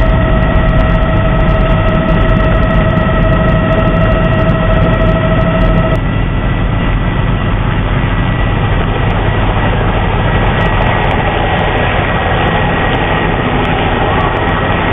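Loud, steady engine noise with a heavy low rumble and a steady high whine that stops about six seconds in.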